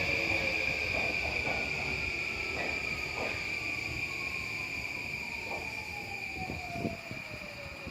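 JR East E235-1000 series electric train braking into the platform, its traction motor whine falling steadily in pitch as it slows, over a steady high whine. There are faint scattered knocks and a sharper one near the end.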